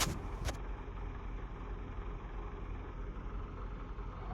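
Steady low rumble with a faint hiss above it: constant outdoor background noise with no distinct events.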